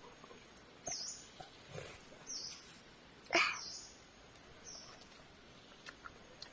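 A bird calling repeatedly, short high chirps about every second and a half, with one louder call sweeping down from high to low about halfway through.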